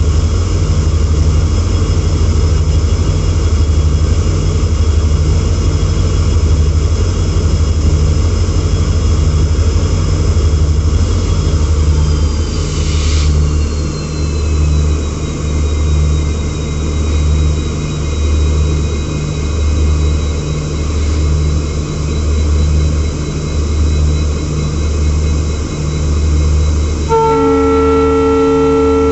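Diesel-hauled passenger train running, with a low rumble that pulses about once a second and high whining tones that drop in pitch about halfway through. A loud, steady chord of horn tones starts abruptly near the end.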